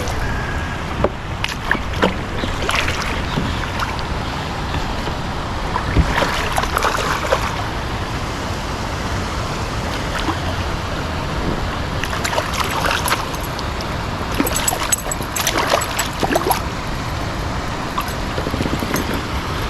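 Steady rush of flowing creek water, with scattered short clicks and knocks throughout.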